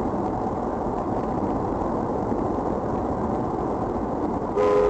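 Steady road and engine noise of a car driving, heard through a dashboard camera. Near the end it cuts to a louder clip with a steady held tone.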